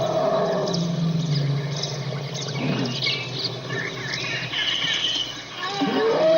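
Small birds chirping outdoors, with a low steady rumbling animal sound under them for the first couple of seconds and a pitched animal call beginning near the end.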